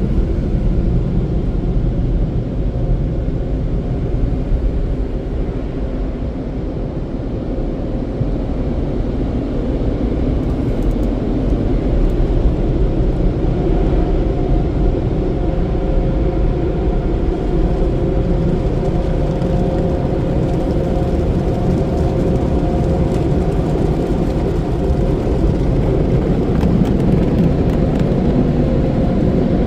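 Car heard from inside its cabin, a steady low rumble of engine and road noise while it drives, with a faint steady hum in the middle part.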